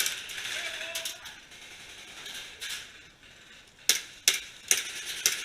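Airsoft guns firing: a string of sharp, irregular cracks, with a quick run of five or six shots from about four seconds in.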